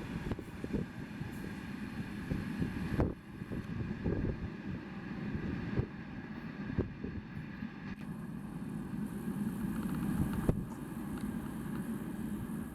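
A passing train rolling by at speed: a steady low rumble with irregular sharp knocks from the wheels, and wind buffeting the microphone.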